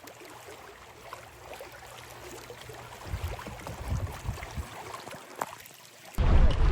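Quiet river water sounds around a canoe, with a few soft low bumps and a click partway through. Near the end it cuts abruptly to much louder wind noise on the microphone.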